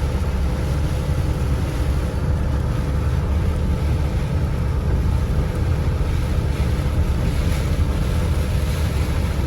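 Steady rushing noise with a heavy low rumble, typical of strong wind buffeting the microphone during a rainstorm.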